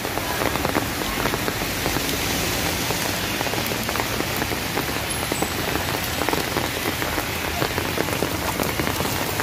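Heavy typhoon rain falling steadily, with the close hits of many single drops.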